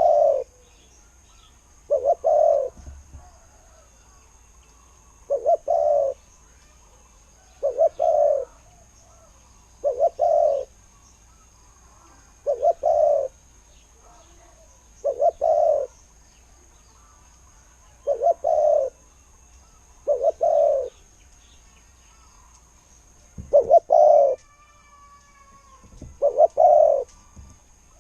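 Spotted dove cooing: a short, low two-part coo phrase repeated about every two and a half seconds.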